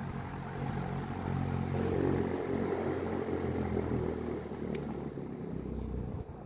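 Ventisilva VPL 65 cm wall fan running: a steady low motor hum under the rush of air from the blades, with a single light click about three-quarters of the way through.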